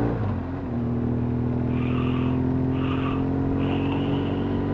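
A vehicle's engine running steadily at low speed, a level drone with a brief dip just under a second in. Three faint short high-pitched sounds come over it in the second half.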